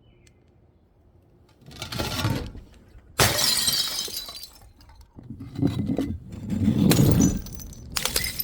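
Glass bottles being smashed: a smaller crash about two seconds in, then a loud shattering crash about three seconds in with shards clattering for over a second, a heavier, deeper stretch of breaking around the seventh second, and another sharp crash near the end.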